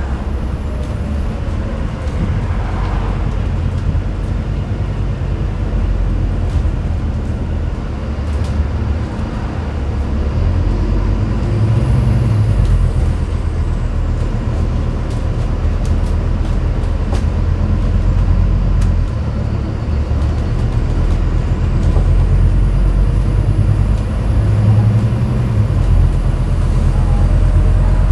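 Scania N250UD double-decker bus under way, its five-cylinder diesel engine and drivetrain rumbling as heard from the top deck, getting louder about a third of the way through, with a faint high whine that comes and goes.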